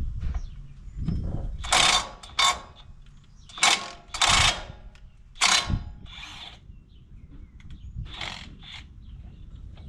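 Ratchet wrench worked in short strokes on the bolts of a disc mower's blades, giving a series of brief rasping clicks, several loud ones in the first half and fainter ones later.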